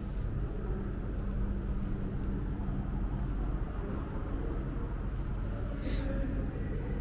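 TTC Line 2 subway train running at the station platform: a steady low rumble and hum, with a short hiss near the end.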